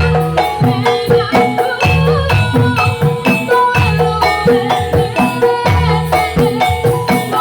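Javanese gamelan music of the kind that accompanies a Jathilan horse dance: drums with tuned metal gongs and metallophones playing in a steady, repeating rhythm.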